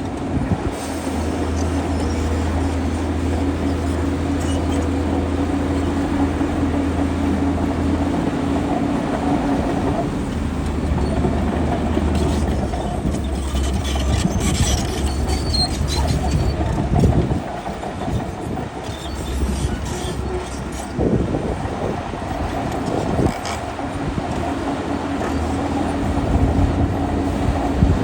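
Shantui DH17C2 crawler bulldozer's diesel engine running steadily under load, its low hum easing and picking up again a few times, with the clatter of its steel tracks and several sharp clanks in the second half.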